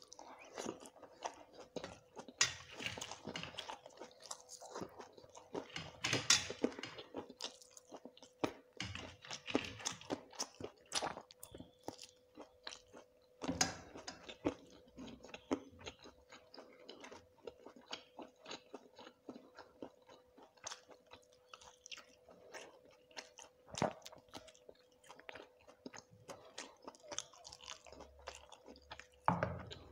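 Close-miked eating sounds: chewing and crunching a meal of rice with crisp fried sides, as a steady run of irregular bites and crackles. A faint steady hum runs underneath.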